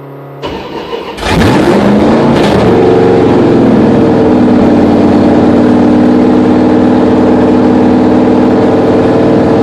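1966 Plymouth Valiant V100 engine cranking briefly, catching, revving up and then running steadily. This is its newly rebuilt engine being run for break-in.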